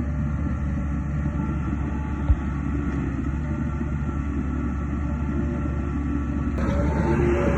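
Heavy diesel earthmoving machinery running steadily with a low drone, with one short click about two seconds in; the engine gets louder and brighter near the end, as if taking on load or revving up.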